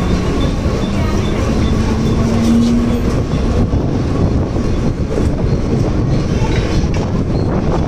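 Mumbai suburban electric local train running along the platform, a loud steady rumble of wheels on the rails heard from beside the coach, with rail clatter coming through in the second half.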